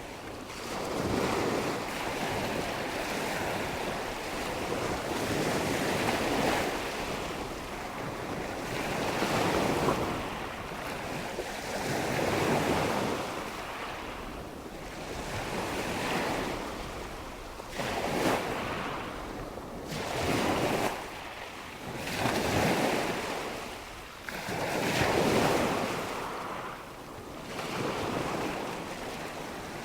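Waves washing ashore, a steady rush that swells and falls back every two to three seconds.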